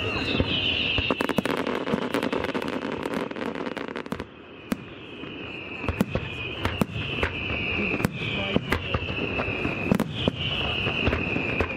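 Fireworks display: a dense rattle of crackling reports early on, then a string of whistles, each falling in pitch, about two a second, with scattered bangs among them.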